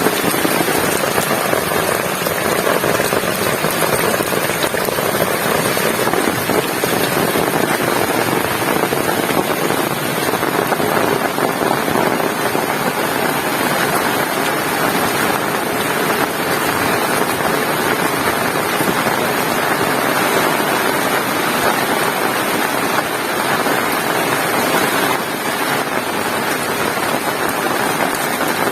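Heavy rain falling steadily, a dense, even wash of sound with no break.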